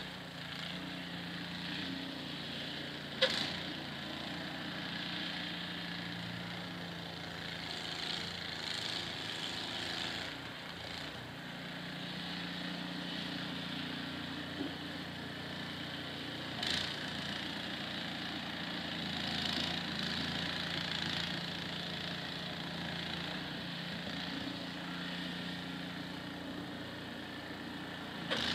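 A small engine running steadily, with a low hum that comes and goes a little, and two or three sharp clicks or knocks.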